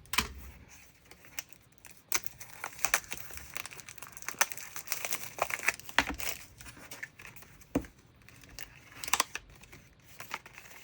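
Crinkling and rustling of a pack of scrapbook paper in its plastic packaging being handled and the sheets pulled out, with irregular sharp crackles throughout.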